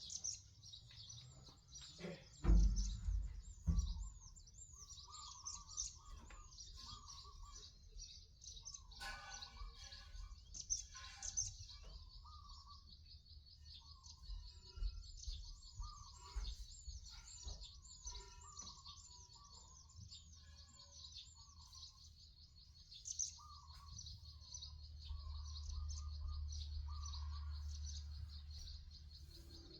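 Birds chirping and calling: a fast, steady run of high chirps with slower short warbled notes underneath. A couple of loud thumps come about two to four seconds in, and a low rumble rises near the end.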